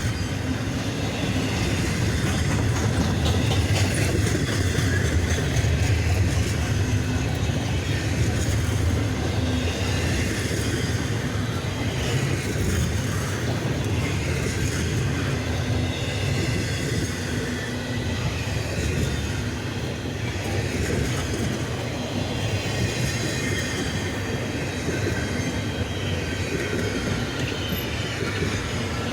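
CSX double-stack intermodal train's cars rolling past, a steady rumble of steel wheels on rail with faint high wheel squeal.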